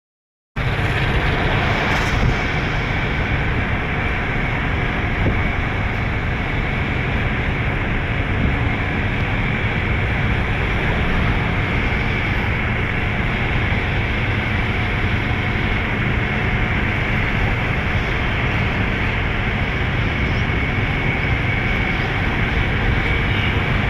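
Heavy truck driving: steady engine and road noise with no let-up.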